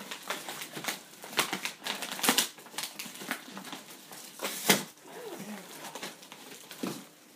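Irregular clacks and knocks of plastic parts and packaging being handled while unpacking a boxed hand-crank washing machine, the loudest knock a little under five seconds in.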